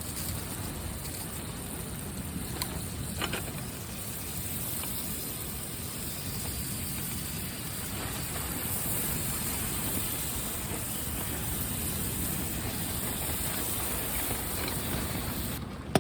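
Strong wind blowing steadily, rumbling on the microphone, with a couple of faint clicks a few seconds in.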